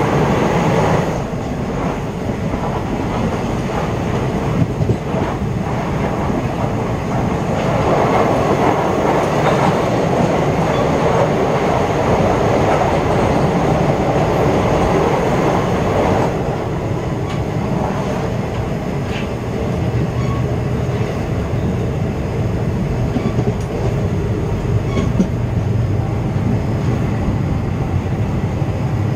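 Moving passenger train heard from its open doorway: a steady rumble and rattle of wheels on the rails, with clickety-clack over rail joints and a few sharp clicks. The harsher rattle eases about halfway through.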